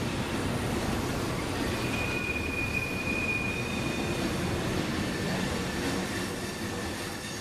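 Freight train tank cars rolling through a curve: a steady rumble of steel wheels on rail, with a thin, high wheel-flange squeal about two seconds in that lasts under two seconds.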